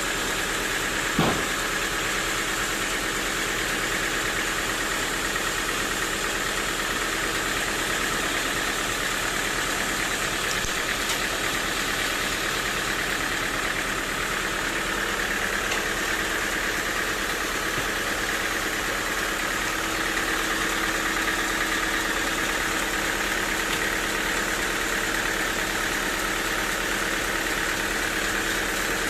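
Sawmill machinery running steadily, an even mechanical hum with a few steady tones. A single short knock sounds about a second in.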